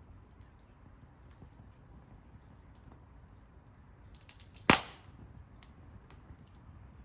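Wood fire crackling softly with scattered small ticks, and just under five seconds in one loud, sharp pop from the burning wood.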